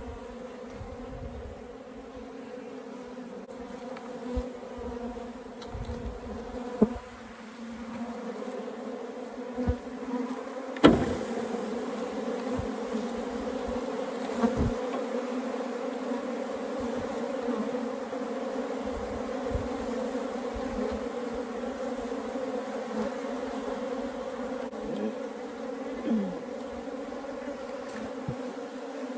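Steady buzzing of a large, agitated swarm of Africanized honeybees flying around, a constant hum throughout, with a few sharp knocks, the loudest about eleven seconds in.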